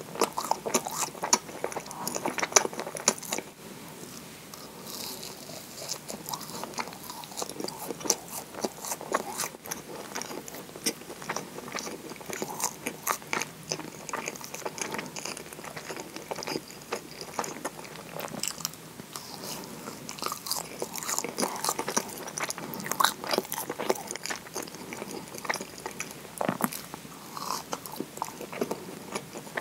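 Close-miked eating sounds: biting and chewing a moist scone, a steady run of small crackles and mouth clicks, loudest in the first few seconds.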